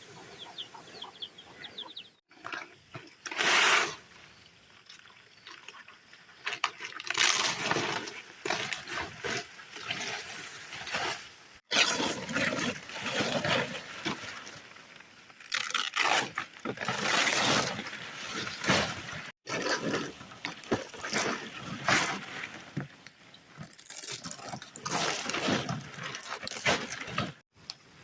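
Water splashing and rushing in uneven surges, broken by several abrupt cuts.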